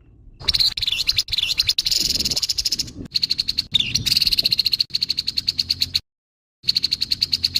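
Grey-headed babbler giving harsh, rasping calls in a fast rattling chatter. The calling breaks off completely about six seconds in, resumes briefly and then cuts off abruptly.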